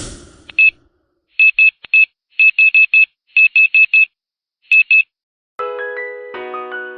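A run of short, high electronic beeps in quick uneven clusters, like a digital text or typing sound effect. Soft electric piano music begins about five and a half seconds in.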